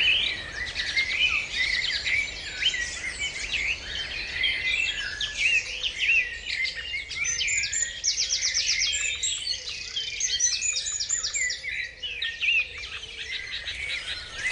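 A dawn chorus of many songbirds singing at once, with overlapping songs, quick trills and chirps.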